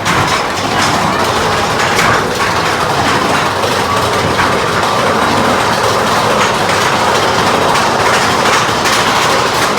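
Big Thunder Mountain Railroad mine-train roller coaster running on its track, heard from aboard: a loud, steady rattle and clatter of the cars and wheels.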